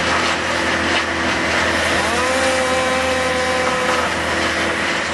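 Woodchipper running loudly and steadily as branches are fed in, with a whining tone that rises about two seconds in and holds for a couple of seconds before fading.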